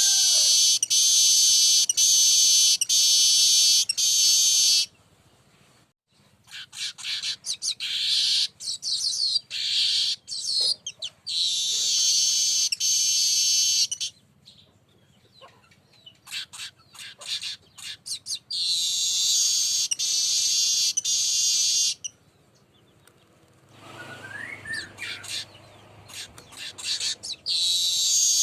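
Weaver bird (manyar) song: long, buzzy, high-pitched sizzling phrases of several seconds each, given about four times, with rapid short chips and clicks between them.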